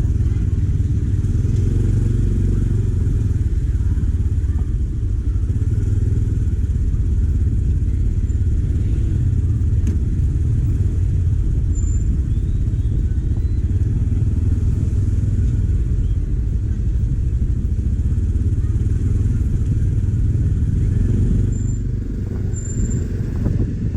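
Motorcycle underway on the road, a steady low rumble of engine and riding noise that eases slightly near the end.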